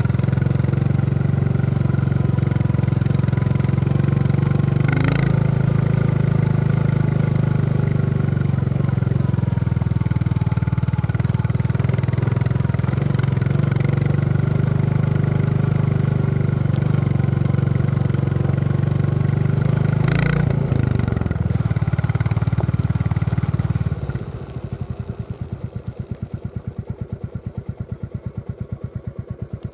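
Royal Enfield Classic 350 single-cylinder engine running steadily under way, with two short clunks along the way; about three-quarters of the way in it drops off to a quieter, slow, even thump at idle.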